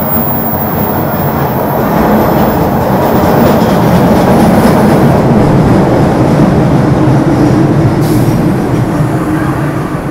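A train running, a heavy rumble that grows louder over the first few seconds and eases slightly near the end.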